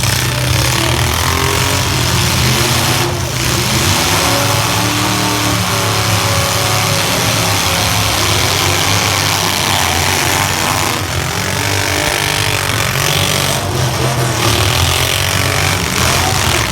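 Several compact pickup trucks' engines running and revving together, their pitches rising and falling over one another, with a few sharp knocks about three seconds in and again later on.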